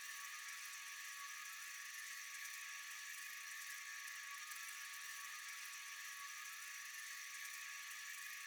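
Steady, unbroken high-pitched chorus of night insects, a dense shrill hum with a few held tones over it. Fireflies themselves are silent, so this is the insect chorus of a summer night.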